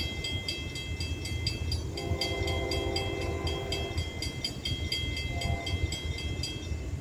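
Horn of a Norfolk Southern GE C44-9W (Dash 9) diesel locomotive: one long blast about two seconds in, then a short blast, over the low rumble of the locomotive engines. A bell rings rapidly throughout and stops just before the end.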